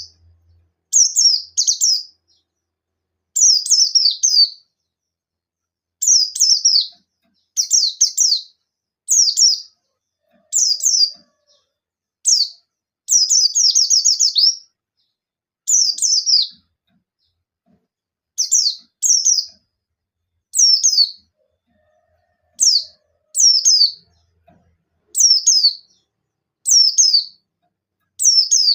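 A buxtoni white-eye (pleci) singing in short, rapid-fire phrases. Each phrase is a quick run of high, falling chirps, repeated every second or two with short pauses between. This is the 'nembak' style of song, calling out to a rival bird.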